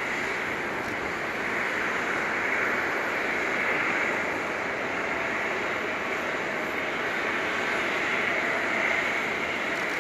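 Jet aircraft engines running, a steady rushing noise that swells gently a couple of times.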